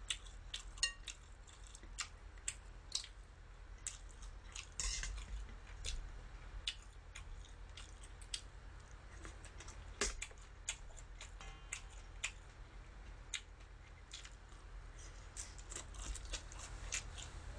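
Close-miked eating sounds: chewing of soft meatball pancake and dressed spinach leaves, with scattered sharp wet mouth clicks and chopstick clicks, over a steady low hum.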